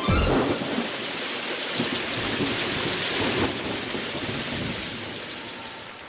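Recorded rain-and-thunder sound effect: a steady hiss of falling rain, with a low rumble in the first moment, fading out gradually.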